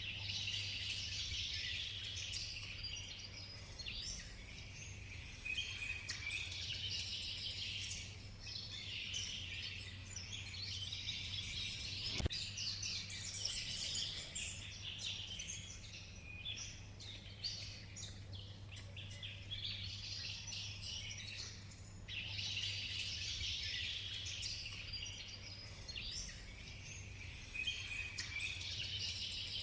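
Rainforest soundscape: many birds chirping and calling at once over a low steady hum, with a single sharp click about halfway through.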